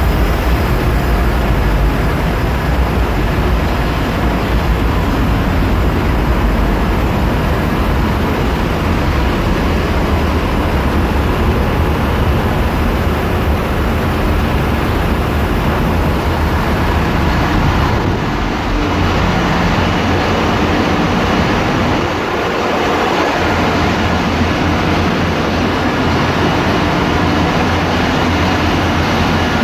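Loud, steady machinery noise of a bulk carrier's engine room, diesel engines and auxiliary machinery running, heavy in the low end with hiss above. The sound changes about two-thirds of the way in, and the deep part dips briefly a few seconds later.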